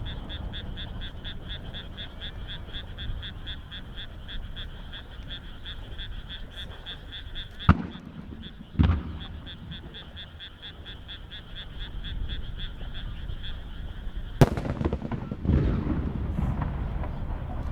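Large aerial firework shells going off: two sharp bangs about a second apart near the middle, then another sharp crack followed a second later by a heavier boom with a low rumble. Under them runs a steady high pulsing chorus of frogs calling, several pulses a second, which drops out after the crack.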